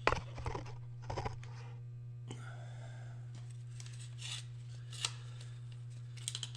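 A steady low electrical hum, with scattered clicks and light metal clinks as things are handled, loudest at the very start and again about a second and five seconds in.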